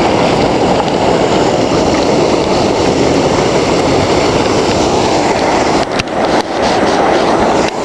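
Heavy rain and floodwater rushing down a street, a loud steady hiss. A few sharp taps about six seconds in and near the end, as rain hits the wet camera.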